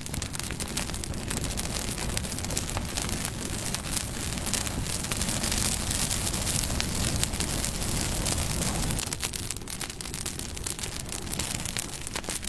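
Campfire burning, with a steady low rush of flames and many small crackles and pops from the burning wood; it swells a little mid-way and eases near the end.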